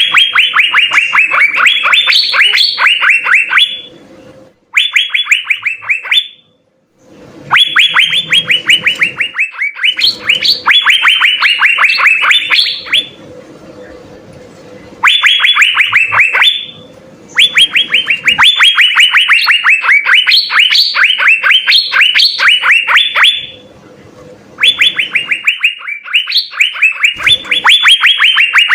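Asian fairy-bluebird (cucak biru) singing loudly: fast runs of short, downward-sweeping whistled notes, several seconds long, broken by brief pauses.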